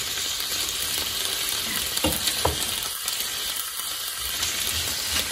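Sliced pork and onion sizzling as they fry in a pan, stirred with a wooden spoon, with a steady high hiss and two soft knocks about two seconds in.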